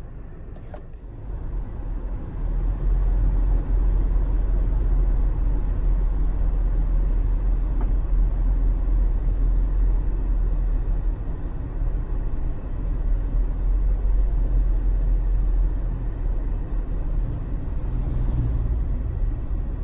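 Nissan Serena (GC27) minivan being driven: a steady low rumble of engine and road noise that builds over the first two seconds and then holds. There is a short click about a second in.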